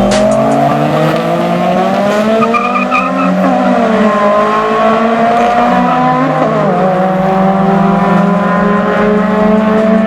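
Car engine running hard under acceleration, its note climbing, dropping back about three and a half and six and a half seconds in, then climbing slowly again.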